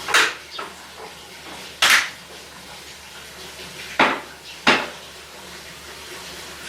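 Dishes and utensils being handled on a kitchen counter: four sharp clinks and clatters with a few lighter knocks between.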